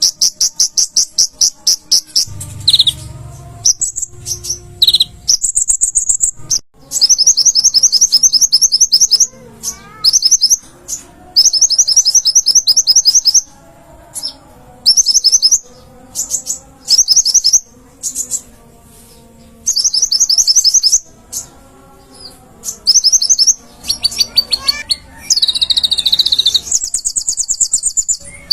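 Kolibri ninja (brown-throated sunbird) singing loudly: rapid, high-pitched trills of fast repeated notes in bursts of one to two seconds, repeated with short pauses between them.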